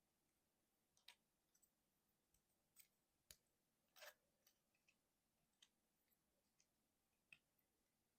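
Faint plastic clicks and snaps from a Transformers Road Pig action figure's parts being turned and clicked into place during its transformation, about a dozen scattered clicks with a slightly longer scrape about four seconds in.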